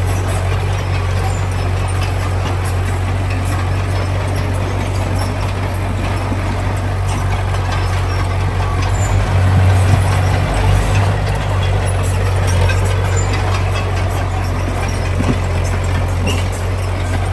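Heavy diesel engine of earth-moving machinery running steadily, briefly louder about ten seconds in, with scattered light clicks and rattles over it.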